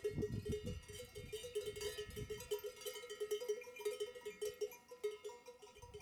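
Bells worn by a flock of sheep clanking irregularly, many overlapping strikes.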